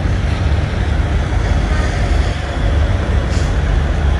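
Heavy diesel semi-truck engine idling with a steady low rumble.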